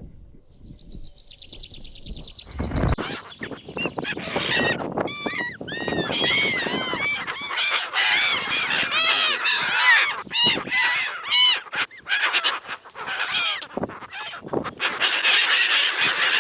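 A fast, even high-pitched trill from a bird, then an abrupt change about three seconds in to a loud, dense chorus of many birds calling over one another in quick, arching notes.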